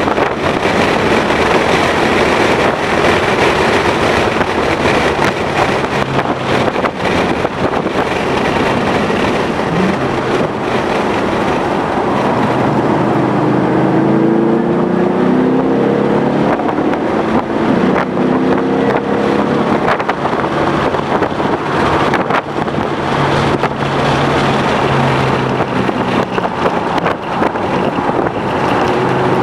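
2011 Mustang GT's 5.0-litre V8 engine running hard at track speed, with heavy wind noise. Through the middle the engine note climbs in pitch again and again as the car accelerates.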